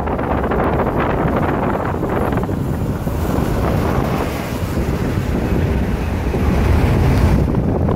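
Wind buffeting the microphone over the steady running noise of a moving passenger train. The high hiss drops away near the end.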